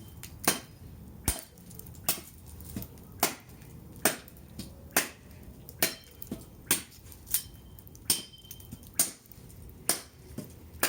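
Machete chopping into firewood over and over, about one sharp strike a second, the blade too dull to split it.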